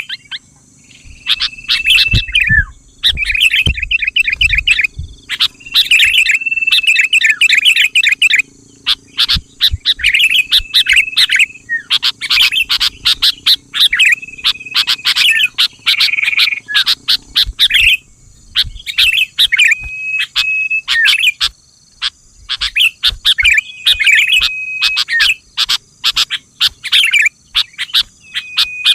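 Sooty-headed bulbul (kutilang) singing, a run of short, bubbling chirpy phrases that each end in a brief held whistle, repeated with short pauses between them.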